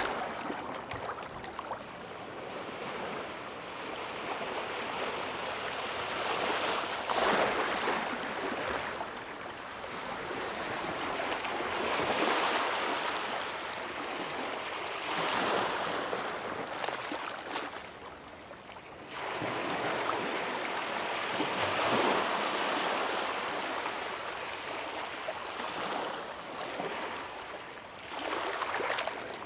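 Ocean waves breaking and washing up the shore, a continuous surf wash that swells every few seconds, with a short lull about two-thirds of the way through.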